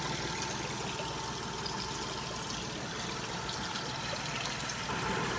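Yamaha F30 four-stroke 30 hp outboard motor idling steadily, with running water trickling and splashing over the engine's even beat.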